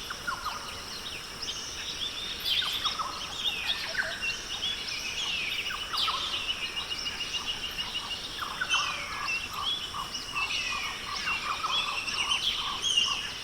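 Rainforest ambience: many birds calling and chirping over one another, with short rising and falling calls, over a steady high hum.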